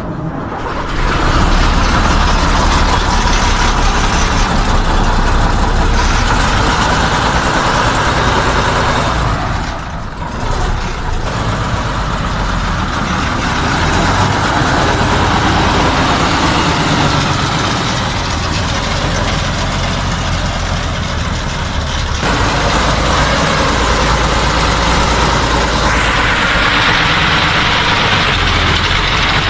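Tatra 111 truck's air-cooled V12 diesel engine coming in and running with a deep, steady rumble. The sound dips briefly about ten seconds in and shifts abruptly twice near the end.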